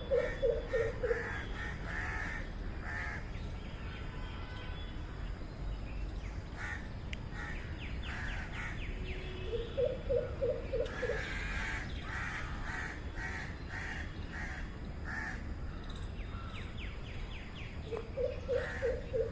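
Greater coucal giving its deep, booming series of hoots, about six evenly spaced notes per run, three runs roughly eight to nine seconds apart. Other birds chatter at a higher pitch in between.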